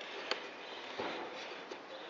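A sharp click, then a knock about a second in, over a low hiss: handling noise from a push lawn mower as its blade is turned by hand to spin the Briggs & Stratton engine over.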